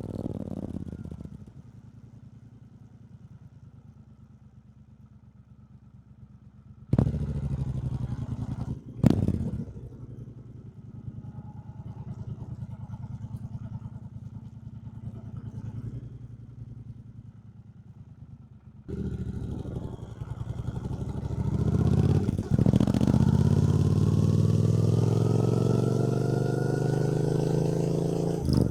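2024 Triumph Bonneville T120's 1200 cc parallel-twin engine. It runs low and quiet for several seconds, picks up about a quarter of the way in with a sharp click shortly after, then in the last third accelerates hard, rising steadily in pitch.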